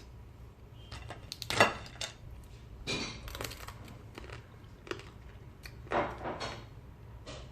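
Eating at a meal table: scattered clinks, taps and crunches of cutlery, plates and food, the loudest about one and a half seconds in and another near six seconds, over a low steady hum.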